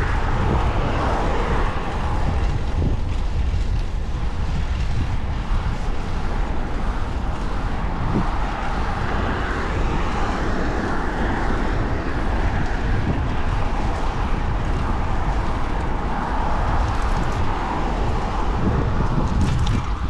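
Wind rumbling and buffeting on the microphone of a moving bicycle, over steady road noise.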